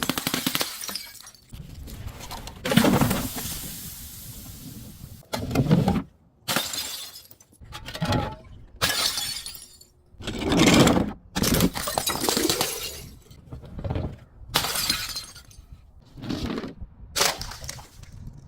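Glass bottles being smashed and crushed: about a dozen separate breaking and shattering crashes in quick succession, some ending abruptly with short silent gaps between them.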